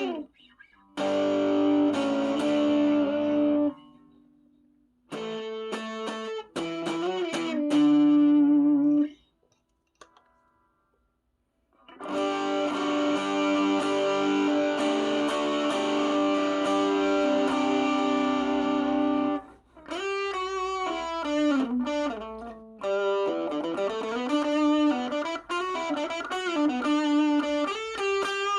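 Electric guitar played through an overdrive pedal: chords and short phrases with brief silent pauses between them, then a long ringing chord, then single-note lines with string bends and vibrato.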